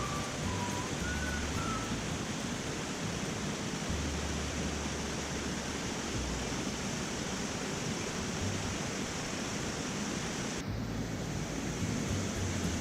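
Steady rush of a flowing mountain stream, an even watery hiss, with a brief dip about ten seconds in.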